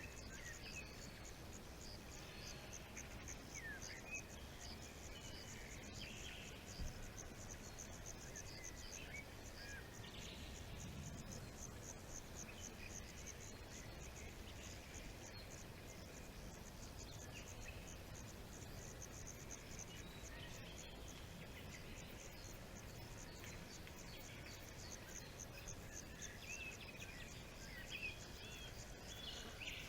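Forest ambience: an insect chirping in a steady fast pulse, about five pulses a second, with scattered short bird calls and a low background rumble.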